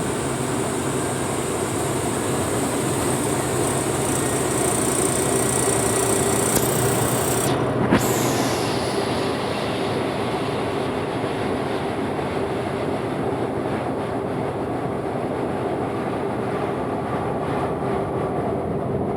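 International boom truck driving, its engine running steadily under road noise, with a single sharp click about eight seconds in.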